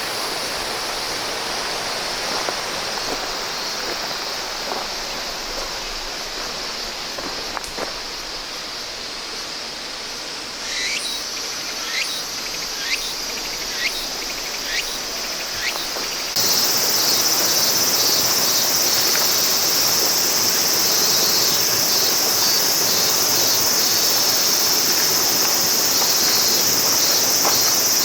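A stream runs steadily, with a series of short chirps about once a second near the middle. About two-thirds of the way in, the sound cuts abruptly to a louder, high, continuous shrilling of insects over the flowing water.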